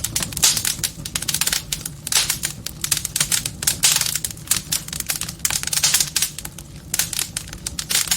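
Wood fire in a fireplace crackling, with a dense, irregular run of pops and snaps over a steady low rumble.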